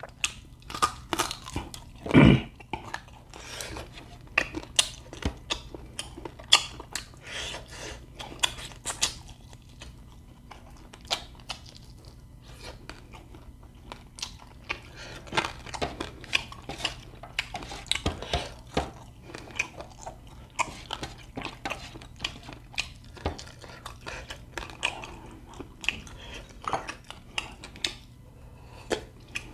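A person chewing and biting cooked quail meat close to the microphone: a steady run of short wet smacks and clicks, with one louder brief sound about two seconds in.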